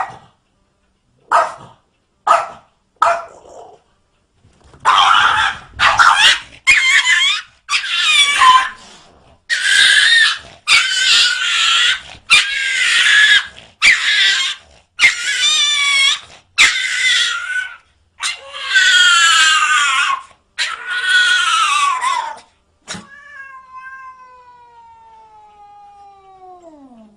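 A cat yowling: a few short calls, then a run of loud, wavering cries about a second each with short breaks between them. Near the end a quieter long tone slides steadily down in pitch.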